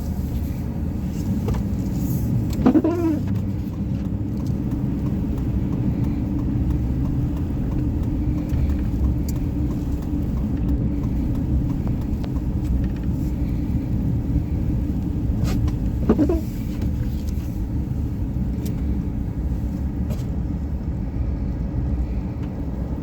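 Steady low rumble of a car's engine and tyres heard from inside the cabin while driving on a snowy road. Two brief squeaks with a bending pitch come about three seconds in and again about sixteen seconds in.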